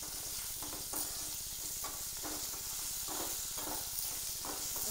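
Onions, fenugreek and curry leaves sizzling in hot oil in a pan, with drumstick (moringa) pieces going in and a ladle stirring them in repeated scraping strokes, about two a second, over a steady hiss.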